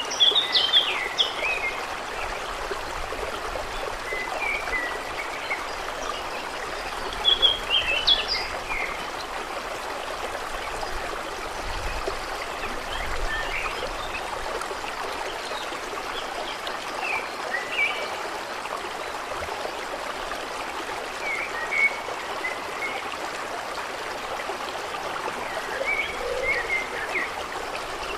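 Steady trickling, flowing water with a small bird chirping in short bursts every few seconds, the loudest chirps near the start and about eight seconds in.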